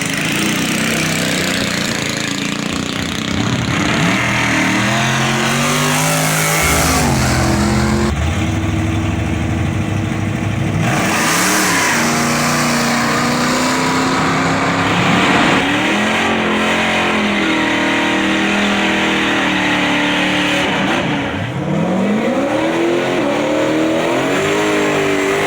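Drag-racing cars' engines revving and accelerating away, the pitch climbing and falling repeatedly as cars run and pass. The sound changes abruptly every few seconds from one car to the next.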